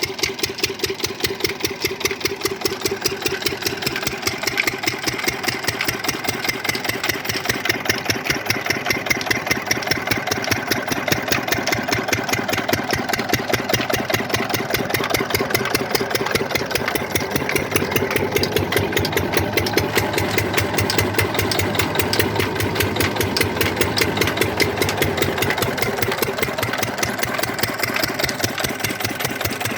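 Field Marshal 10 hp single-cylinder diesel engine running steadily while driving a 4x3 water pump, with an even, rapid exhaust beat.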